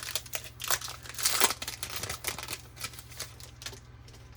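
Foil wrapper of a 2020 Topps Series 1 baseball card pack being torn open and crinkled: a quick, irregular run of crackles, loudest about a second in, that dies away near the end.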